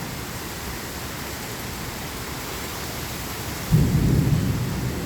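Heavy rain falling steadily, then about three-quarters of the way through a loud, low rumble of thunder breaks in suddenly and carries on.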